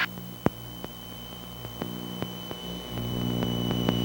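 Steady low drone of the Piper Seneca's twin engines heard in the cockpit, with a thin high whine and scattered faint clicks. The drone grows louder about three seconds in.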